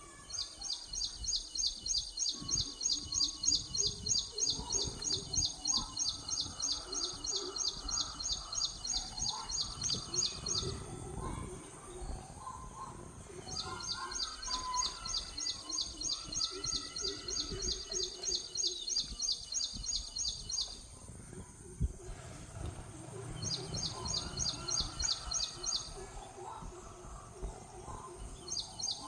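Bird calling in long runs of a rapid, evenly repeated high note, each run lasting several seconds with short pauses between. Other birds call more faintly underneath.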